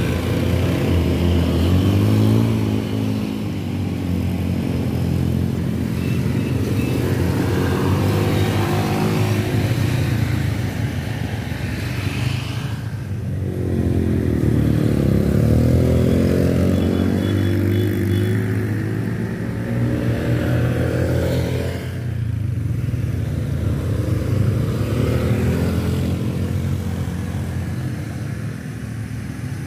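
Motorcycle engine working hard up a steep climb under heavy throttle, its pitch rising and falling repeatedly, with two brief drops as the throttle eases.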